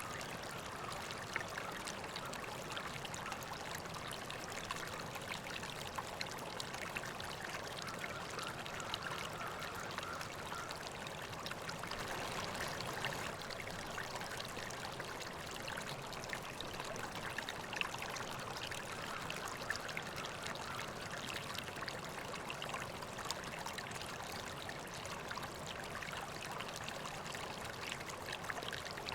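A river flowing steadily, a continuous rush of running water with many small splashes and trickles.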